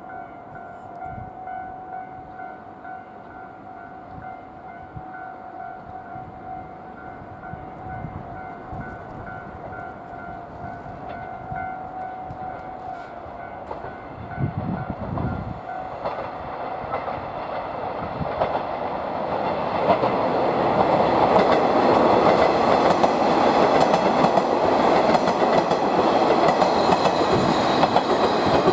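Japanese level-crossing alarm ringing in a steady pulsing pattern, then a JR East HB-E300 series diesel-hybrid train approaching and passing. The train noise builds from about halfway and is loudest over the last third, with wheels clicking over the rail joints.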